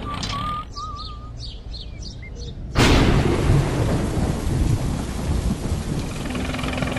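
A sudden loud thunderclap about three seconds in, followed by steady heavy rain with low rumbling thunder. Before it, a wavering high tune ends about a second in.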